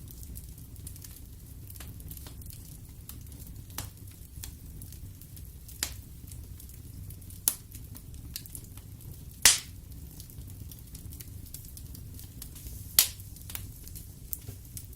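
Wood fire burning in a fireplace: a low steady rumble of flames with scattered crackles and sharp pops of the burning wood, the loudest pops about halfway through and again near the end.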